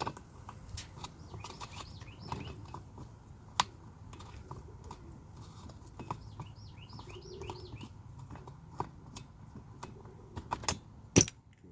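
Scattered clicks and knocks from handling chainsaw parts and tools on a workbench, with a sharp knock about three and a half seconds in and a louder pair near the end. About six seconds in, a bird gives a quick run of short chirps.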